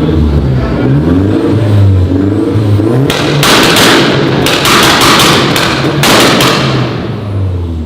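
Tuned Volkswagen car engine revving up and down, then about three seconds in a run of loud sharp bangs over a harsh roar, before it settles back to a steadier engine note near the end.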